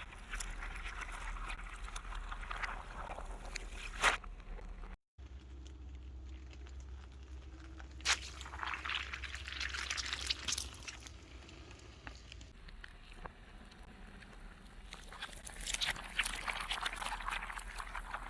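Car tyres rolling over and crushing soft and crunchy objects: crackling, a sharp pop about four seconds in, and hissing, sloshing liquid as filled containers burst and spill.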